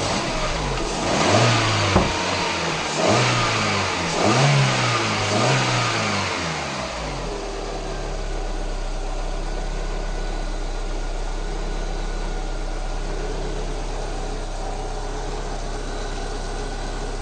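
Lada Kalina's VAZ-21126 1.6-litre 16-valve four-cylinder engine revved up and back down several times with short throttle blips, then settling into a steady idle about seven seconds in.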